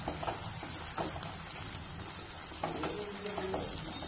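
Tomato, garlic and ginger paste sizzling in hot oil in a nonstick kadai as it is fried, with a spatula scraping and stirring it in a few irregular strokes.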